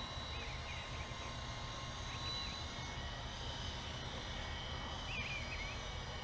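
Small electric Syma F1 Armor RC helicopter flying, its motor and rotor giving a steady whine. A bird chirps briefly a few times.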